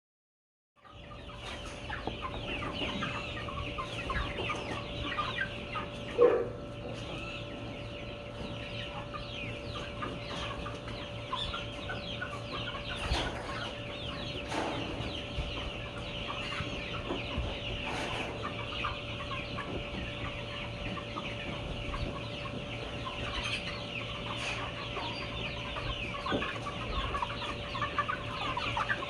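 A flock of chickens clucking and chattering continuously, starting about a second in, over a steady hum. There is one brief louder sound about six seconds in.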